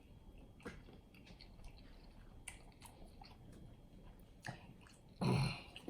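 Close-up chewing and wet, sticky mouth sounds of someone eating chicken wings in sweet garlic sauce, with scattered small clicks and one louder, short sound near the end.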